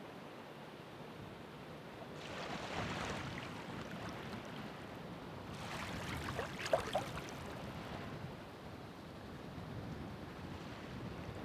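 Ocean waves washing in under a steady hiss of surf. Two waves swell up, about two seconds and six seconds in, each with a fizzing crackle of foam.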